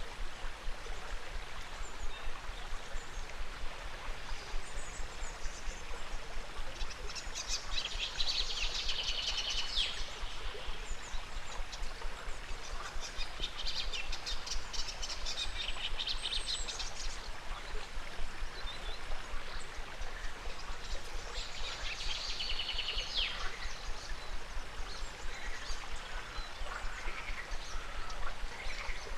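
Birds singing in several high, rapid trills of a few seconds each over a steady rush of river water.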